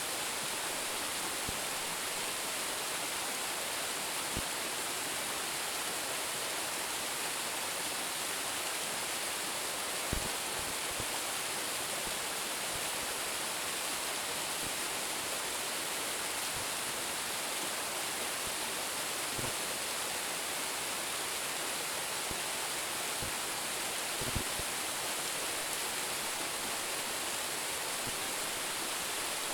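Steady, even rush of a waterfall of about ten metres pouring onto rock and pool. A few faint low thumps sound here and there.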